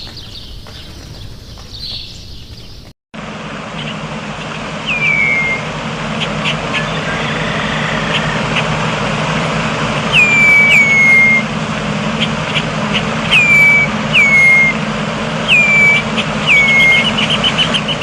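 A songbird repeatedly calls a short whistle that drops sharply in pitch, about six times, then gives a fast trill near the end. The calls come over a steady background rumble with a low hum.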